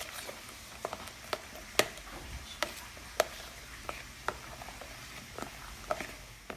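A spoon clinking against a bowl while stirring a cream filling with strawberries: a dozen or so light, irregular clicks.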